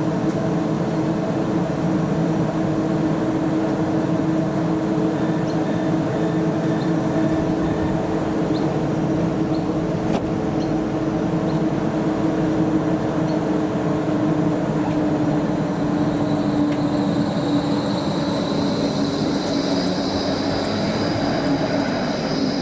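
Tram running along a light-rail line: steady rolling rumble with a low motor hum. A high-pitched whine comes in about three quarters of the way through and holds to the end.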